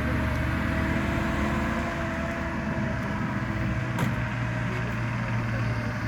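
Star 660 army truck's six-cylinder petrol engine running steadily after 35 years standing, with one sharp click about four seconds in.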